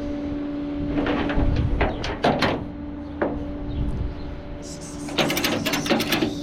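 A steady mechanical hum under a series of sharp metallic clanks and knocks: a few in the first half, one on its own a little past the middle, and a quick run of them near the end.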